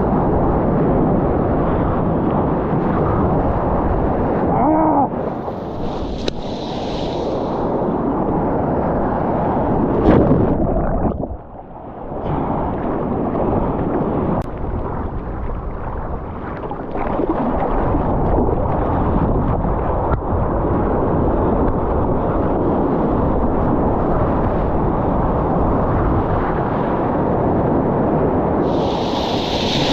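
Lake water rushing and splashing against the camera, with wind buffeting the microphone, from a surf session; the noise drops away briefly about eleven seconds in.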